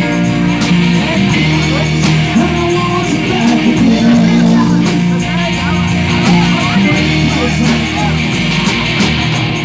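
Live band playing rock music, with guitar over sustained bass notes.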